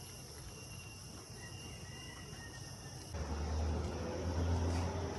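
Steady high-pitched insect drone, crickets or cicadas, in tropical forest. About three seconds in it cuts off abruptly and a low steady hum with hiss takes over.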